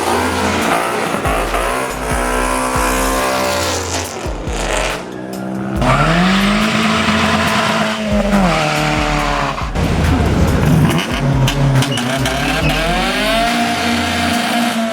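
A car engine revving hard and dropping back several times, with tyres squealing as the car drifts or does donuts, and a brief lull about four to five seconds in.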